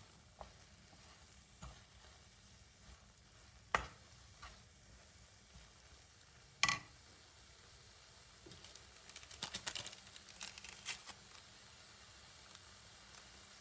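A few sharp clicks and knocks, the loudest two about four and seven seconds in, then a run of light crackling ticks around nine to eleven seconds.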